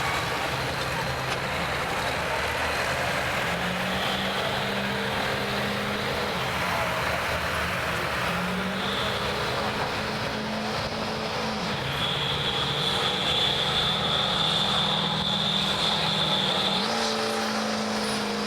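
Stock diesel pickup truck engine running hard under load on a pulling track, its steady note stepping up in pitch a few times. A high steady whistle joins it for several seconds in the second half.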